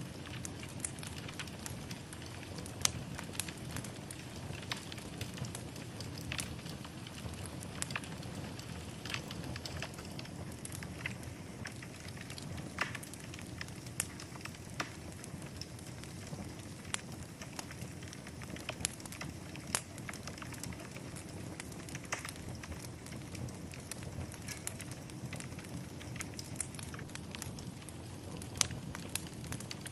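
Fire burning in a fireplace: a steady low rumble of flames with frequent irregular sharp pops and crackles.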